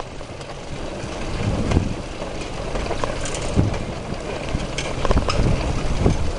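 Bicycle ride noise: a rumble with scattered rattling knocks as the bike rolls over the path, and some wind on the microphone.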